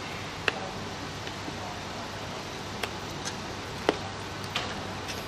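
A few sharp, light clicks and taps of small parts being handled during the cooler-plate fitting, over a steady low hum and hiss. The loudest clicks come just after the start and about four seconds in.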